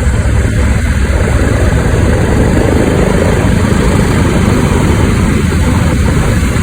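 Aircraft engine running, loud and steady.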